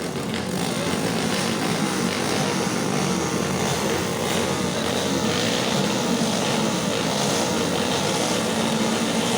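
Several motocross motorcycle engines running together in a dense, steady buzz, which swells during the first second.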